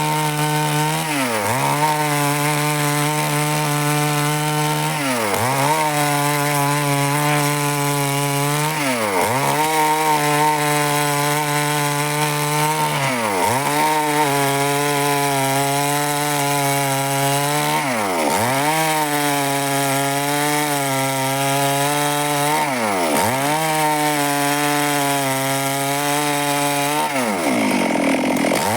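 Stihl chainsaw running at high revs while cutting wood, its engine speed dipping briefly and recovering about every four to five seconds, seven times in all.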